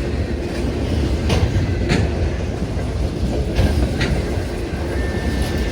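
Freight train cars rolling past on the rails with a steady low rumble. The wheels click over rail joints in pairs.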